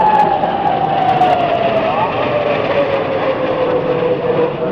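Hongdu L-15E jet trainer flying past: the jet engine runs steadily under a whine that slides down in pitch as the aircraft goes by.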